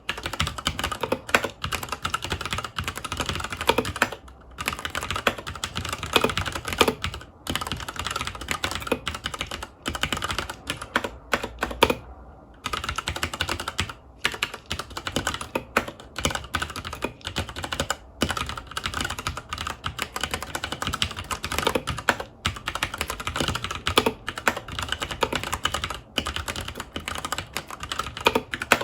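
Continuous fast typing on a FILCO Majestouch 2 Hakua tenkeyless mechanical keyboard with Cherry MX Brown switches: a dense run of key clicks and clacks, broken by a few short pauses, the longest about twelve seconds in.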